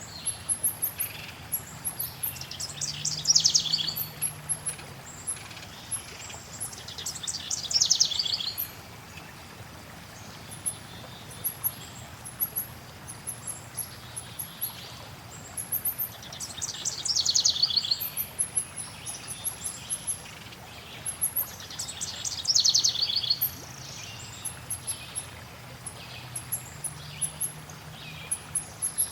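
Songbirds singing over a steady hiss of flowing water: one bird repeats a descending trilled phrase, each about a second and a half long, four times, with thin high chirps from other birds throughout.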